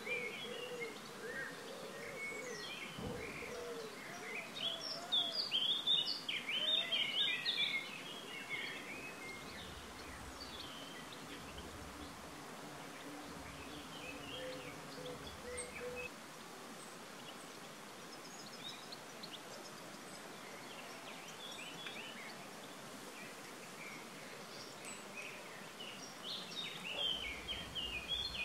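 Several songbirds chirping and singing, with a loud flurry of calls a few seconds in and another near the end, over a steady outdoor background hiss.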